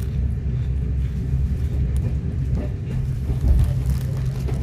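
Diesel train engine running with a steady low drone.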